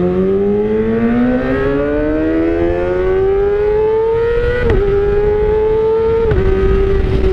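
Kawasaki ZX-25R inline-four engine through an Austin Racing aftermarket silencer, accelerating with a steadily rising pitch. It shifts up with a quick dip in pitch about four and a half seconds in and again about six seconds in, then settles to a slowly falling tone.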